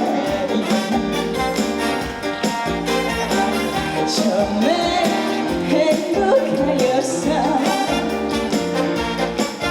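Live trot song played through a concert PA: a full band backing with a sung lead melody.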